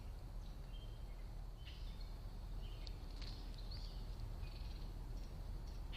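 Small birds chirping and calling with many short, high chirps and brief notes, over a steady low rumble.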